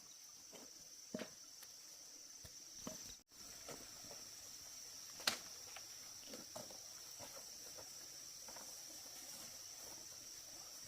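Insects droning steadily at a high pitch, with scattered light knocks and taps of handwork. The sharpest knock comes about five seconds in.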